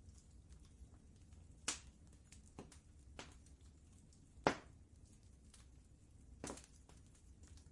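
Wood fire crackling: a handful of sharp, irregular pops over a low, steady rumble, the loudest pop about halfway through.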